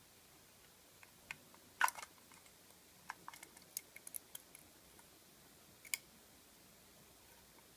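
Light clicks and taps of small repair tools and iPhone parts being handled: a sharper cluster about two seconds in, a quick run of ticks around three to four seconds, and one more click near six seconds.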